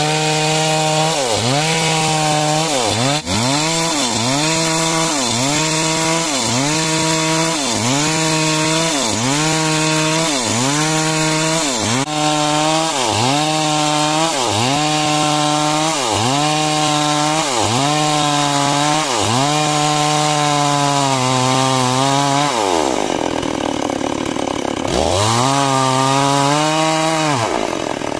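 Two-stroke chainsaw cutting timber into beams, its engine pitch dipping and recovering about once a second as the chain loads in the wood. Near the end the revs drop away, rise briefly once more, then fall again.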